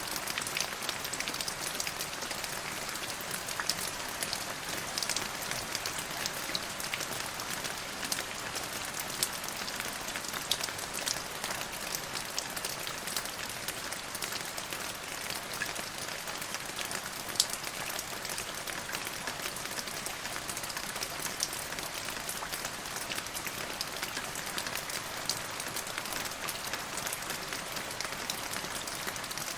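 Steady rain falling on a hard surface, a dense hiss with many individual drops ticking sharply through it; one louder drop hit stands out a little past halfway.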